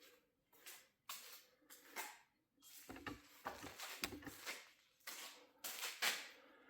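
Irregular scuffing, rustling and light knocks of hands handling tools and parts, with a few sharper clicks, about a dozen separate sounds.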